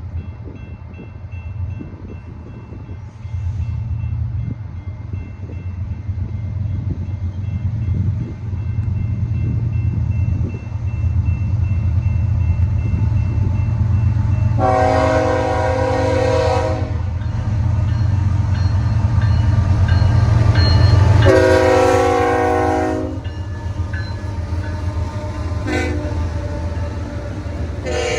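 Diesel locomotive approaching with a deep engine rumble that builds and peaks about three quarters of the way through. Its multi-chime air horn sounds two long blasts, a short one and the start of another long one: the long-long-short-long grade-crossing signal.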